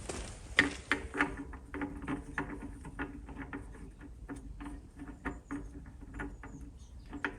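A run of light, irregular taps and clicks, several a second, with a few sharper knocks about half a second in, at about a second and near the end: hand work with metal parts and tools at the bench.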